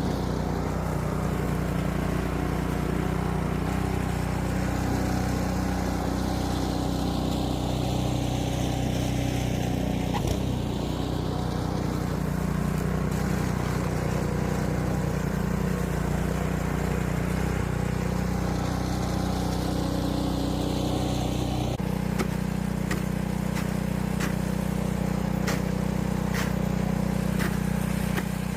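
A small gasoline engine, most likely the snowblower, running steadily. About 22 seconds in its note shifts and a run of sharp ticks and clicks joins it.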